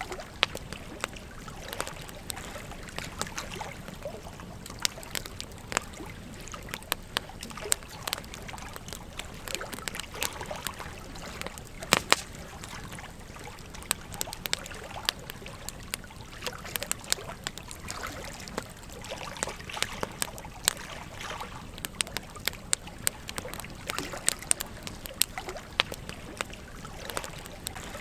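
Wood campfire crackling with frequent irregular snaps and pops, the loudest a close pair about twelve seconds in, over the steady trickle of a gentle stream.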